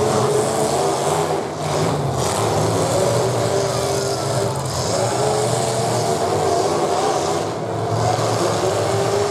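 Engines of several full-size demolition derby cars running and revving together, their pitches rising and falling as the cars push and spin their wheels.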